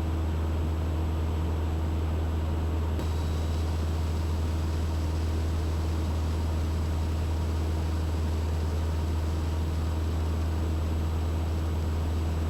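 Steady drone of a Mooney M20E's four-cylinder Lycoming engine and propeller in cruise, heard inside the cabin.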